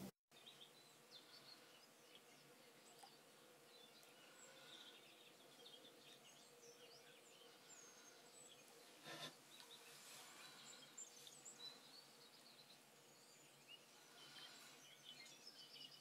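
Faint outdoor ambience with scattered short, distant bird chirps and calls, and one brief soft knock about nine seconds in.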